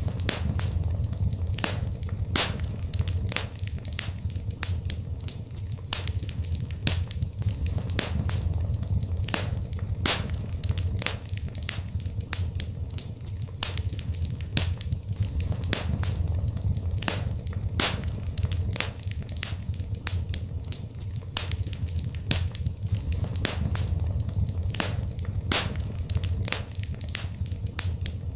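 Wood fire in a fireplace crackling and popping, with irregular sharp snaps over a steady low rumble of burning.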